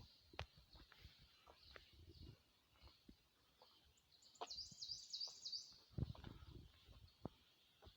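Faint songbird singing, one quick phrase of about six repeated high sweeping notes about halfway through. Scattered faint clicks and low thumps come before and after it.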